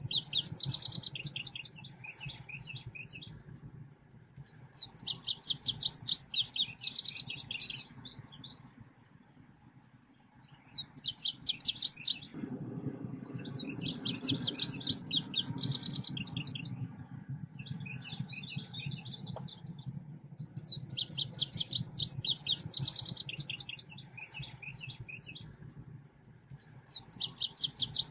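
Selendang biru songbird singing a lively lure song: bursts of rapid high chirps and trills, each phrase a few seconds long and repeating every five or six seconds. A low steady hum runs underneath and grows louder about halfway through.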